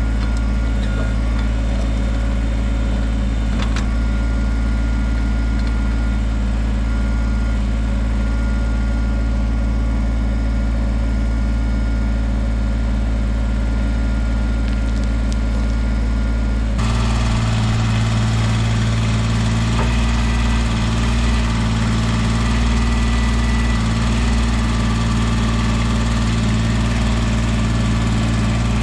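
Kubota BX23S tractor-loader-backhoe's three-cylinder diesel engine running steadily. About 17 seconds in, the sound changes suddenly and becomes louder and brighter.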